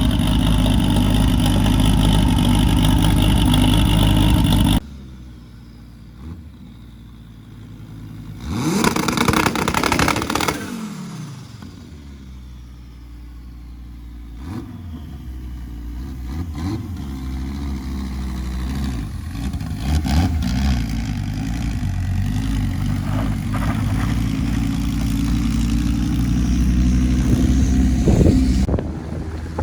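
A loud steady sound stops abruptly about five seconds in. A car engine then revs sharply up and down, and settles into a running drone that grows gradually louder.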